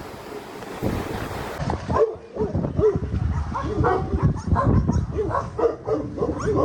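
Wind buffeting the microphone, then, after a cut about two seconds in, a dog barking and yelping in quick short calls, several a second.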